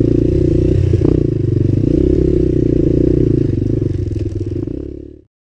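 Suzuki LT-Z250 quad's single-cylinder four-stroke engine with its stock exhaust, running under way as it is ridden. It fades out over the last second and cuts off just before the end.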